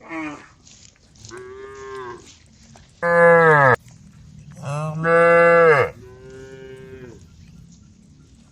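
Cows mooing: about five drawn-out calls in turn. Two are loud and close, about three and five seconds in, each dropping in pitch as it ends. The others are fainter.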